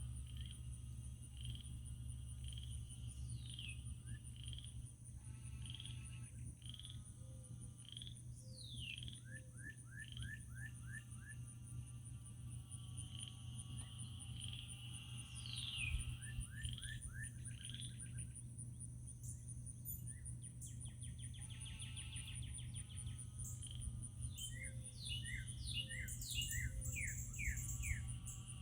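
Outdoor wildlife chorus: birds calling in short series of falling and rising chirps, over a steady high insect trill that runs throughout.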